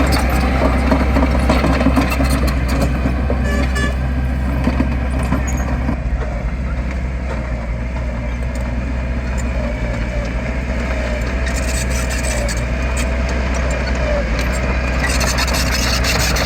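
Diesel engine of heavy earthmoving machinery running steadily with a deep, continuous rumble, with scattered light clicks and rattles over it.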